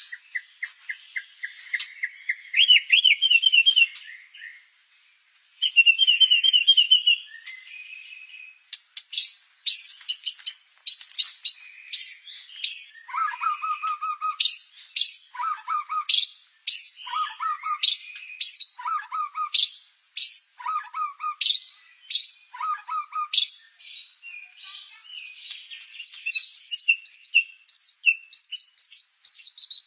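White-rumped shama (murai batu) singing a long, varied song: quick trills, then a high note followed by a lower trill repeated about every second and a half, and clear high whistles near the end. The song is filled with learned 'isian', imitations of the cililin.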